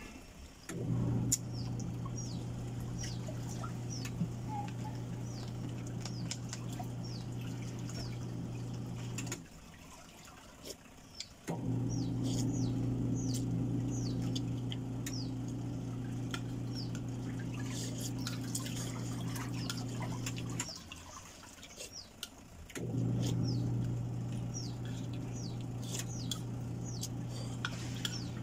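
Small birds chirping throughout with many short, falling calls, over a steady low hum that cuts out twice for about two seconds. Spoon clinks against a ceramic bowl as noodle soup is eaten.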